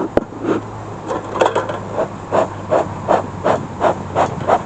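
Beekeeper's smoker bellows being pumped over and over, short puffs of air coming about three a second, with a sharp click just at the start.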